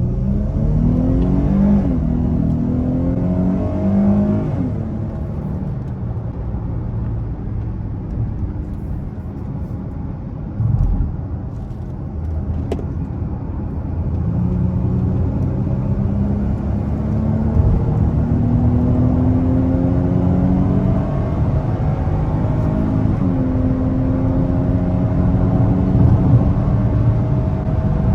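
Dodge Charger's V6 engine accelerating hard at high speed. Its pitch climbs and drops back at gear changes about two and four seconds in, then keeps climbing slowly as the car pulls toward about 115 mph. There is a short thump about halfway through.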